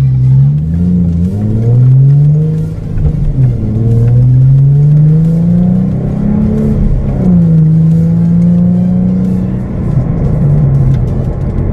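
2013 Ford Mustang V6 engine and exhaust under hard acceleration, revving up through the gears. The pitch climbs and drops back at each of about three upshifts, then holds steady and eases off near the end.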